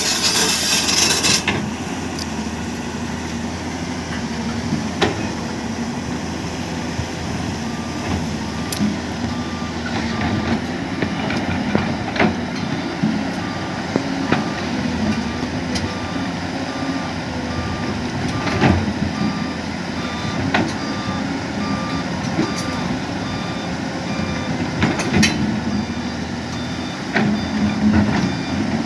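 Heavy construction machinery running, with a reversing alarm on one of the machines beeping steadily from about nine seconds in, and scattered metallic knocks and clanks from the work.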